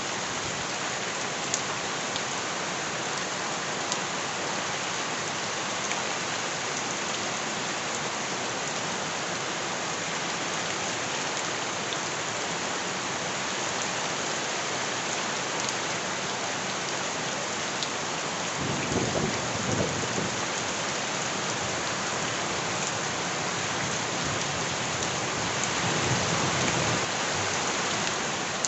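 Steady heavy rain hissing, with scattered sharp drip ticks. Two low rumbles of thunder swell up, one about two-thirds of the way in and one near the end.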